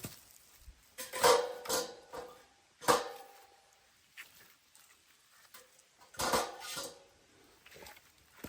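Metal cookware and utensils clinking and knocking in three separate bursts, the sharpest about three seconds in, each with a brief ringing tone.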